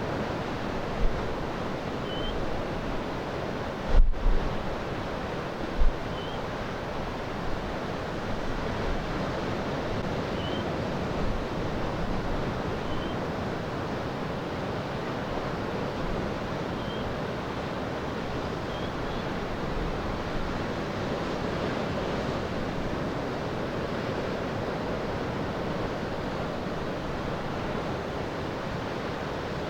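Steady surf and waves breaking, with wind buffeting the microphone in a few low gusts during the first six seconds.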